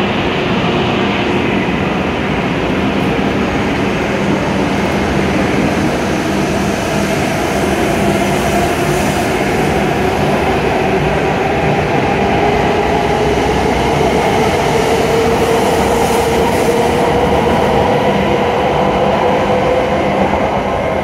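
W7 series Shinkansen train pulling out and accelerating past at close range: a continuous rumble of wheels and body, with the traction motors' whine rising steadily in pitch as it picks up speed. The sound eases off just as the last car goes by.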